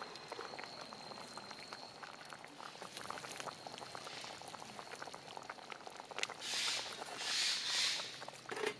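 Pot bubbling over a wood campfire, with many small crackles. Two louder hissing swells come about six and seven seconds in.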